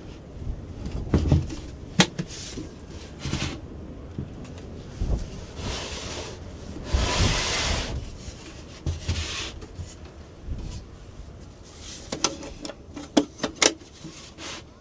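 Things being handled: scattered knocks and sharp clicks, with a longer rustle about seven seconds in and a quick run of clicks near the end.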